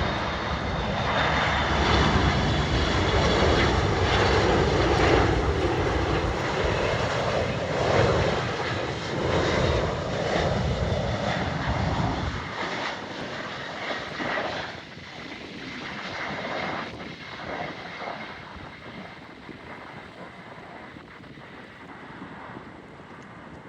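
Jet airliner passing by, its engines loud with a high fan whine and a bending pitch in the first half, then fading away steadily over the second half.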